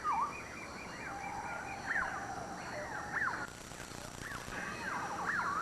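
Swamp wildlife chorus: many overlapping short chirping calls, each quickly rising and falling in pitch, over a steady faint hiss.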